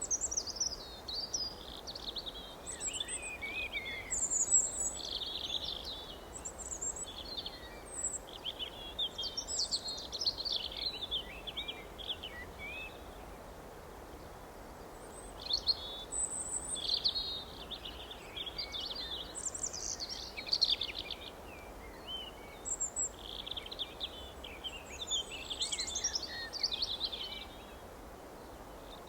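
Several songbirds chirping and trilling in quick, high-pitched bursts, with a lull partway through, over a steady faint background hiss.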